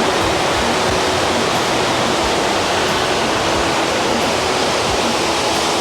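A small waterfall pouring, a steady rushing of falling water.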